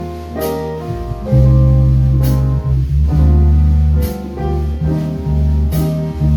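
Instrumental jazz with no vocals: piano chords over long, low bass notes, and a cymbal struck about every two seconds.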